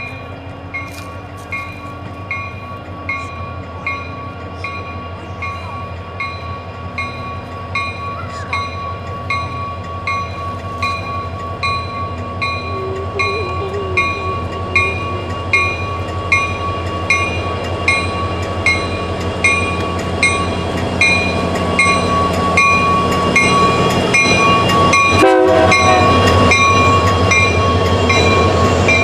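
Union Pacific diesel locomotives hauling a double-stack container train approach and pass, their engines getting steadily louder. A grade-crossing bell rings about once a second throughout, and a single clank comes near the end as the locomotives go by.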